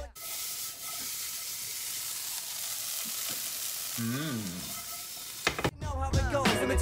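Diced vegetables and paneer sizzling in a hot frying pan as the pan is shaken and tossed, a steady hiss with a short rising-and-falling tone about four seconds in. Near the end the sizzle gives way to hip-hop music with rapping.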